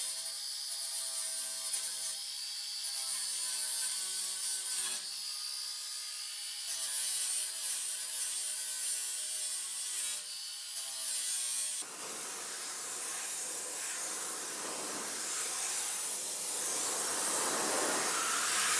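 A small power tool working sheet metal, running with a steady whine that breaks off twice for a moment. About twelve seconds in, it gives way to a harsh hiss that grows louder.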